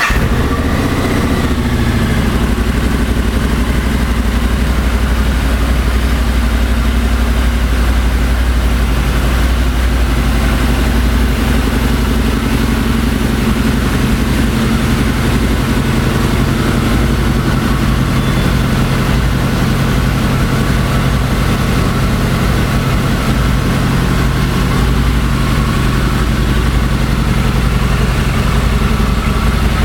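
2003 Harley-Davidson V-Rod's liquid-cooled Revolution V-twin engine, just started and idling steadily.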